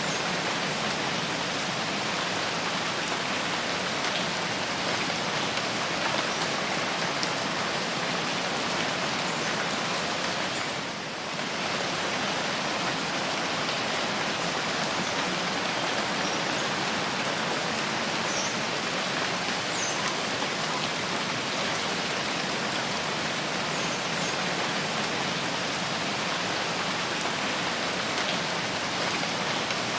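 Steady rain falling in a forest, a dense, even patter, with a brief lull about a third of the way through.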